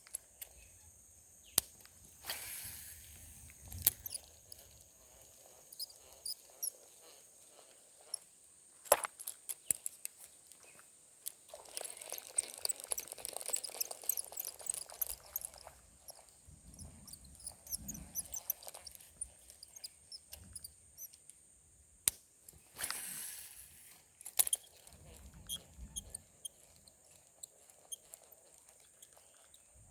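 Outdoor ambience with a steady, high-pitched insect drone, likely crickets, broken by scattered sharp clicks and a few short bursts of rustling.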